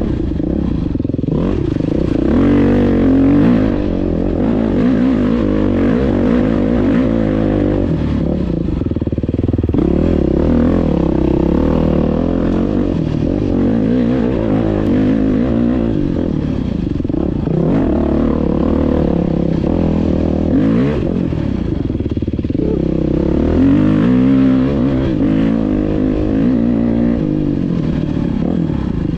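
Dirt bike engine running hard on a trail ride, its pitch rising and falling again and again as the throttle opens and closes.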